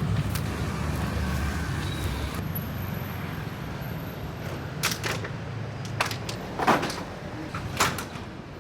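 Motor vehicle engine noise fading away as it pulls off, followed by a few sharp knocks about five to eight seconds in.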